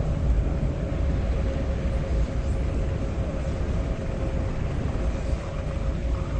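Steady low rumble with a constant hum from a running vehicle.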